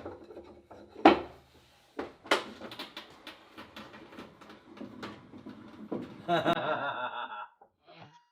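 A run of knocks and clatter from wooden and metal workbench parts being handled, with the loudest knock about a second in. Near the end comes a short voice-like sound lasting about a second.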